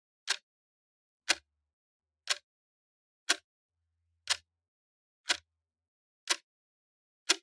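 Clock ticking, one sharp tick a second.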